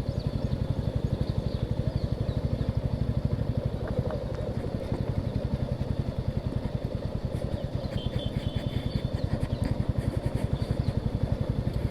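Motorcycle engine running at a steady low speed while the bike is ridden, with an even, rapid beat.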